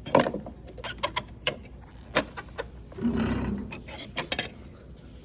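Plastic lift-point tab clips on a car's rocker panel being worked and snapped out by hand: a series of sharp plastic clicks and snaps, with a short denser rattle a little past halfway.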